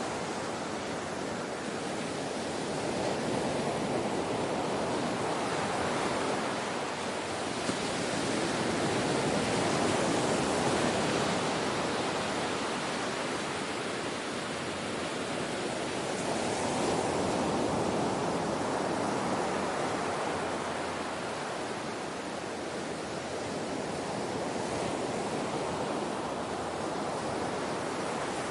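Ocean waves breaking and washing in a continuous rushing surf, swelling and easing about every six to seven seconds.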